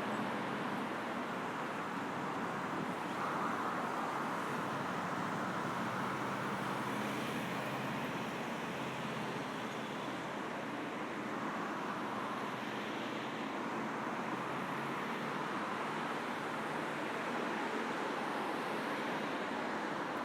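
Steady road traffic: a continuous wash of car tyres and engines, swelling gently now and then as vehicles pass.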